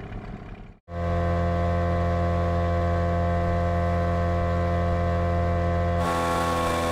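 Boat's outboard motor running at a steady speed with a low, even drone, after a cut just under a second in; the tone shifts about a second before the end.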